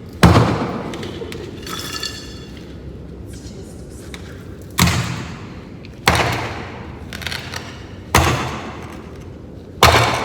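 Five loud thumps, each followed by a short echo, like heavy objects knocked or set down in a large hall. A brief ringing ping comes about two seconds in.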